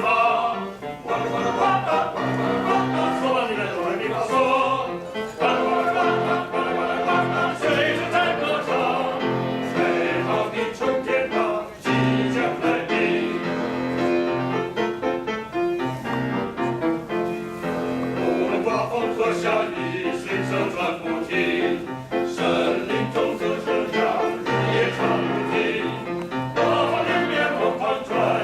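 Small male chorus singing in harmony, with piano accompaniment.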